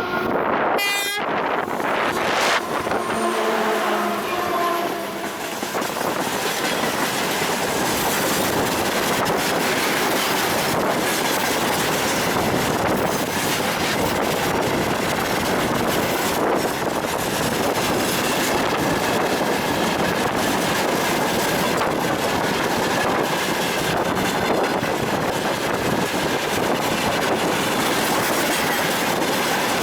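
2TE25KM diesel freight locomotive passing close, its horn sounding in the first second, with pitched tones falling away over the next few seconds. Then a freight train's wagons roll past steadily, wheels clattering over the rail joints.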